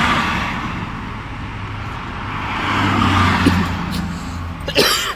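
Bus engine running with road noise, a low steady hum that swells about three seconds in, with a brief voice near the end.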